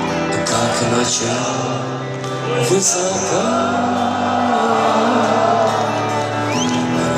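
Live rock band playing a slow song intro, with held chords and a wavering melody line over them, amplified in a large arena.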